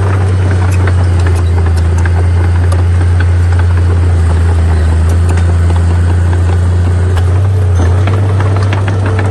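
Heavy earthmoving machine's diesel engine running with a steady deep drone, with scattered clicks and clanks throughout.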